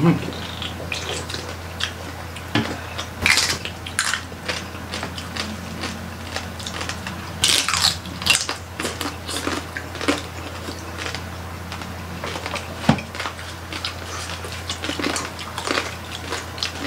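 Close-miked eating of lechon (whole roast pig) torn by hand: irregular wet chewing, smacking and sharp crackles, the strongest about three, four and eight seconds in, over a steady low hum.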